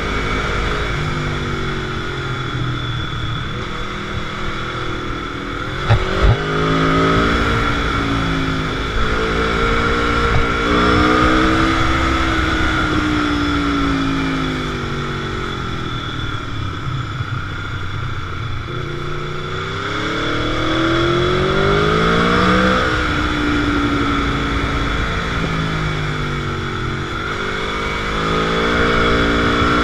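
Motorcycle engine under way, its pitch climbing in steps through gear changes, then easing off and falling before climbing again. A brief sharp knock about six seconds in.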